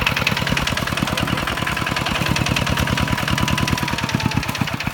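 Kubota tractor's diesel engine running steadily with a rapid, even firing beat.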